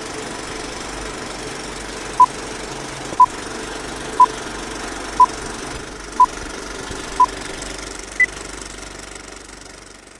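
Film-projector whirr and clatter under a film countdown leader. Six short beeps come at one-second intervals, then a seventh, higher beep.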